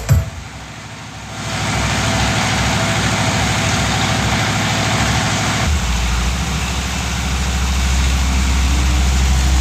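A heavy engine idling steadily, with a broad hiss over it; about six seconds in the hiss drops back and a deep low hum comes to the front.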